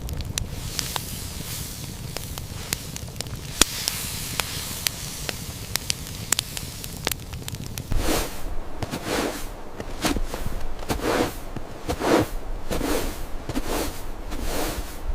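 Campfire crackling and popping, with sharp snaps over a steady hiss. About halfway through, a regular run of crunching sounds starts, roughly one and a half a second.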